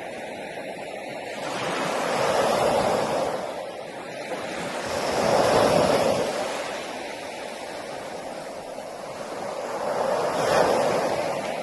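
Sea waves breaking on a beach: the surf swells and fades three times, each wash building and then receding.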